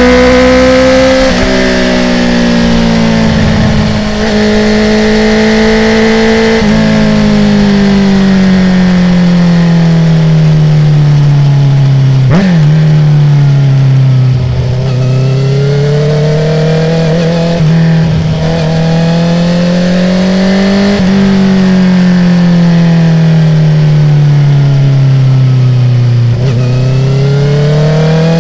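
Honda CB650R's inline-four running through a full Akrapovic titanium exhaust with no dB killer, the revs climbing and falling through a series of corners. There are a few sharp cracks where the note changes.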